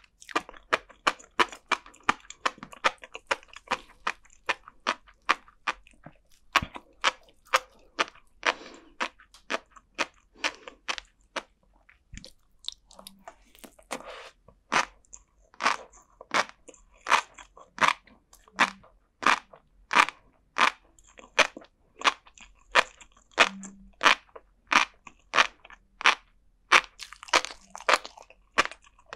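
Close-miked chewing of flying fish roe and sea grapes: a run of sharp little pops and crunches as the eggs and grape-like beads burst. The pops come quickly at first, pause briefly near the middle, then come slower and louder.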